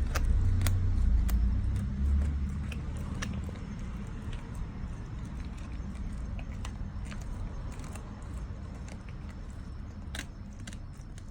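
Dog crunching and gnawing on a dried kangaroo Achilles tendon chew: irregular crisp crunches, with a low rumble in the first couple of seconds.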